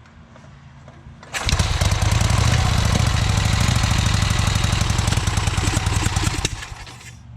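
Vincent Rapide Series C's 998 cc V-twin starting from cold on the first kick about a second in, running for about five seconds with rapid, even firing, then dropping away.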